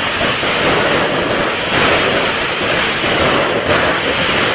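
Audio of a fireworks demo video playing back: six aerial finale cakes firing at once, a steady, dense wash of bursts and crackle.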